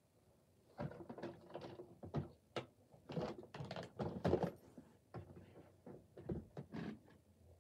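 Plastic Lego pieces clattering and knocking as they are gathered up and put away: a run of irregular clicks and knocks.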